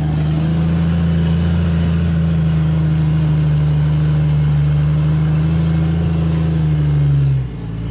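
Off-road rock-crawling buggy's engine held at steady high revs under load on a rock climb, then the revs drop off suddenly near the end.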